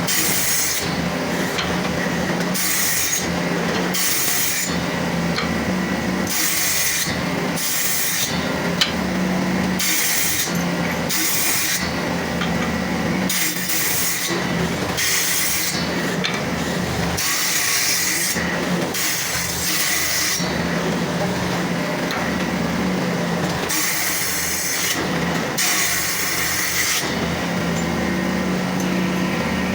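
Wood being worked with a tool in repeated strokes, about one a second, over a steady low hum.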